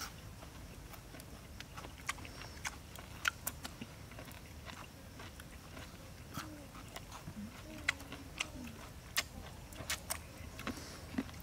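A person chewing and biting food close to the microphone: irregular, scattered mouth clicks and smacks, with a bite into a carrot stick near the end.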